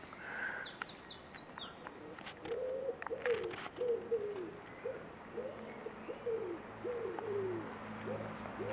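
A pigeon cooing: a series of about eight short, low coos, each falling in pitch, from about two seconds in. Small birds chirp briefly in the first second or so.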